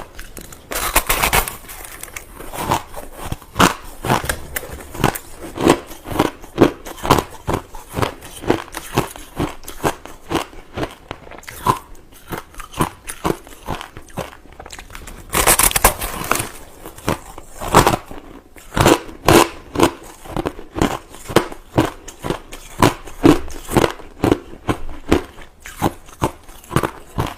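White crushed ice being bitten and chewed: a continuous run of crisp crunches, several a second, with heavier bites about a second in and again a little past halfway.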